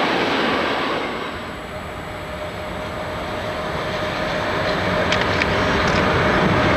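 A passing train's rolling noise fades out in the first second or so. Then a DB Class 103 electric locomotive hauling passenger coaches approaches, its rumble and a steady tone growing louder until it is passing close by, with a few sharp clicks about five seconds in.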